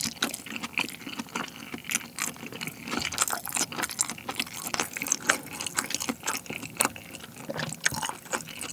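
Close-miked wet chewing of a mouthful of firm, chewy salmon nigiri: many small, irregular sticky clicks and squishes from the mouth.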